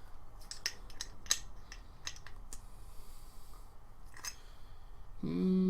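Scattered small metallic clicks and taps of a wrench working a grease fitting on a trimmer attachment's gear head, with a short hum of voice near the end.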